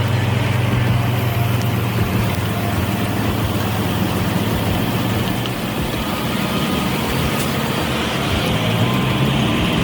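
Heavy truck's diesel engine running with a low, steady drone that eases off around the middle and picks up again near the end.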